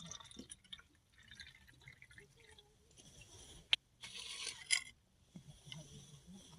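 Faint liquid sounds, like pouring or dripping, with small handling noises and one sharp click a little before the middle.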